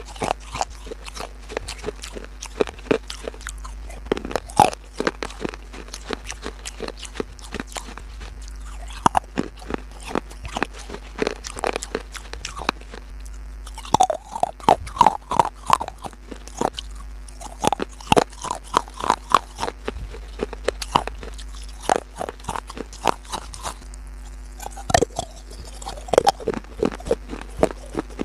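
Crunchy food being bitten and chewed close to the microphone: sharp crisp crunches that come in runs of rapid bites, with a steady low hum underneath.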